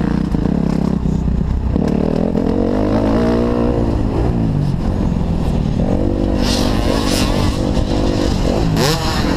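Kawasaki KX250F's four-stroke single-cylinder engine being ridden on a motocross track, its pitch rising and falling repeatedly as the throttle opens and closes, with a sudden change in engine note about two seconds in.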